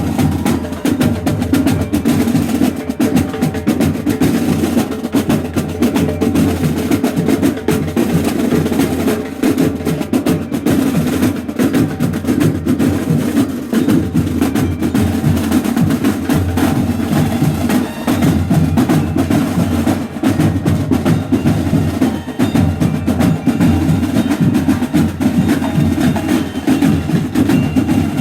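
Mexican banda de guerra drum corps playing: snare drums beat dense, rapid patterns and rolls over drums, with no break.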